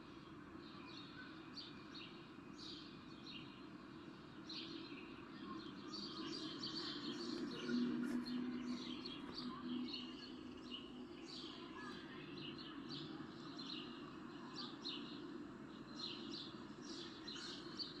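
Faint ambience of small birds chirping, many short calls overlapping, over a low steady background noise; it swells slightly around the middle.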